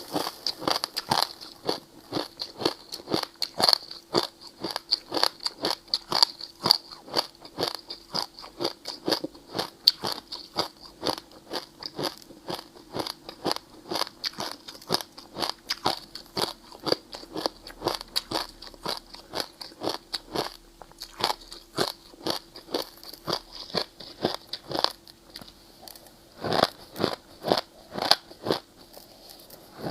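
Ice being bitten and chewed close to the microphone: a rapid, continuous run of sharp crunching and crackling, several crunches a second, with a few louder bites near the end.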